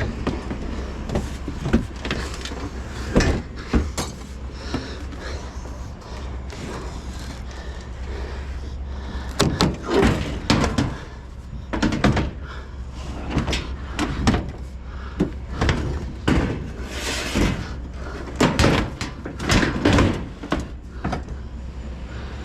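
Scrap metal being handled, with irregular clanks and bangs that come in clusters, over a steady low hum.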